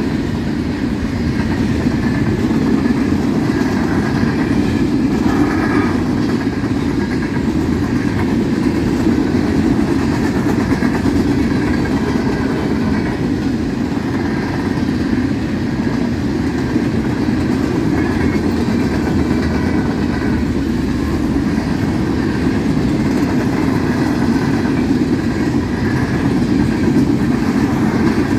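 Freight train of gondola cars rolling past at speed: a steady, loud rumble of steel wheels on rail, with faint higher ringing from the wheels and rails.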